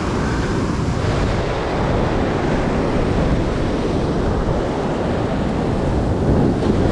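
Ocean waves and surf rushing, with wind buffeting the microphone: a steady, unbroken wash of noise.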